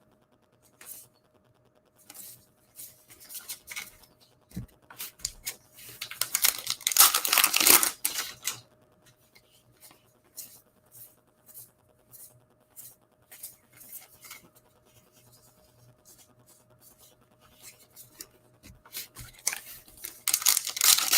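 Baseball trading cards being handled and flipped through by hand: scattered soft clicks and flicks of card stock, with a longer stretch of rustling and sliding about six to eight seconds in and again near the end.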